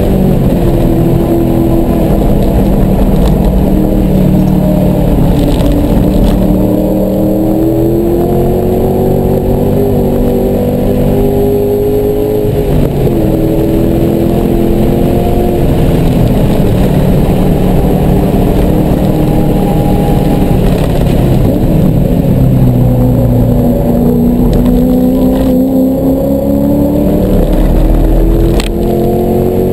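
Car engine at full throttle on a racetrack lap, heard from inside the cabin. It climbs in pitch, drops about halfway through, sinks lower while slowing for a corner, then climbs again and drops quickly near the end.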